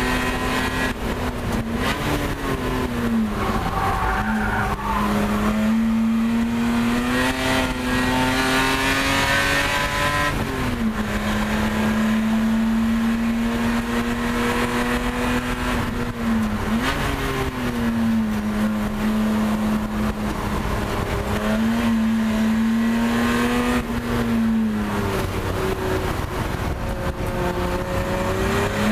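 Race car engine heard from inside the cockpit, running hard under load. Its pitch holds, then drops and climbs back again four or five times across the lap.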